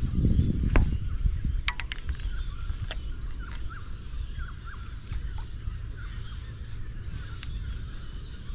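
Birds calling in a run of short repeated chirps over a steady low rumble of wind noise, which is loudest in the first second, with a few sharp clicks.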